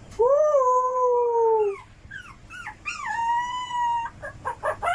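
Dog howling: a long howl, a few short yelps, then a second, higher howl.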